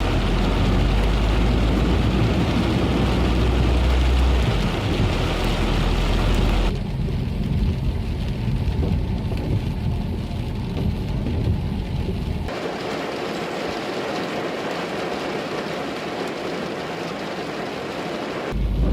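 Heavy rain falling as a steady hiss, in several abruptly cut takes. In the first takes a deep rumble runs under the rain. From about twelve seconds in, the rain is a thinner, higher hiss with no low end.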